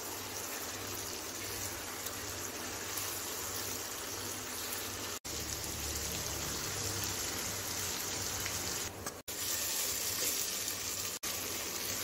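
Chicken pieces and masala frying in oil in a non-stick pan, a steady sizzle as they are stirred with a silicone spatula, cut off for an instant three times.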